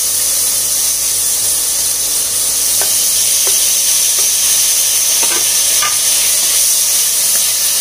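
Chopped vegetables sizzling steadily in hot oil in a pressure pan, with a few light knocks of a wooden spatula stirring them.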